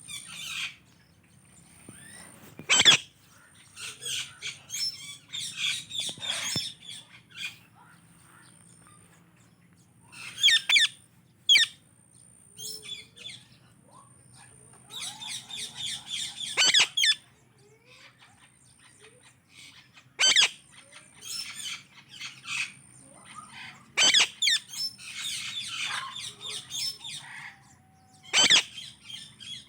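Pet Indian ringneck and Alexandrine parakeets chattering in bouts of rapid chirps. Four sharp, loud squawks stand out among them.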